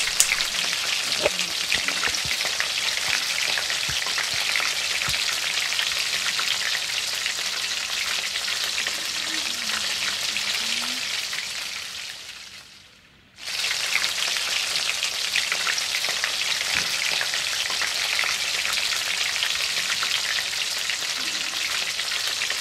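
Meat burgers frying in a pan, a steady sizzle with small scrapes and clicks as a spatula stirs them. The sizzle fades out about eleven seconds in and cuts back in suddenly a couple of seconds later.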